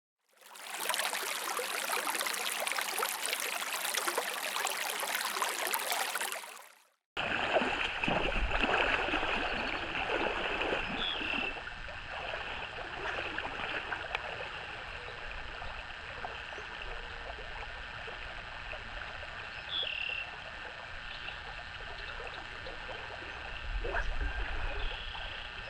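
Flowing stream water with frogs calling: a steady chorus with a few short, separate chirps. The first seven or so seconds are a louder, even rush of water or rain noise that fades in and then cuts off abruptly.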